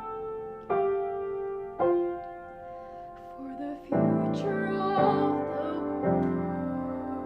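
Piano playing slow, sustained notes and chords, each struck and left to ring, growing fuller about four seconds in.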